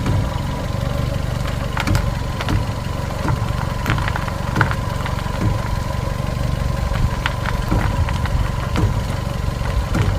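Fiat 500's engine idling, heard from under the car, with irregular knocks and clicks about once a second from the front suspension as the steering is turned. This is the car's banging, which the owner suspects comes from worn bearings in the strut top mounts.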